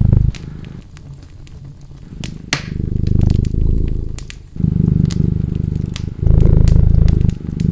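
Domestic cat purring close up in slow, loud pulses of one to two seconds each. The purr fades for the first couple of seconds, then returns. A wood fire crackles and pops throughout, with one sharper pop about two and a half seconds in.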